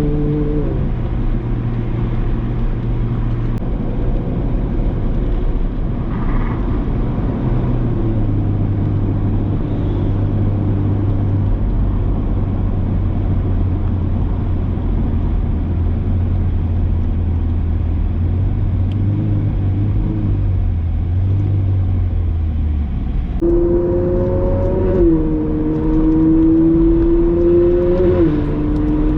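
Ferrari 458 Spider's 4.5-litre V8 through a Brilliant aftermarket exhaust, driving in traffic. The revs drop in the first second and the engine then runs low and steady for most of the stretch, before picking up sharply about 23 seconds in and climbing through a couple of gear shifts near the end.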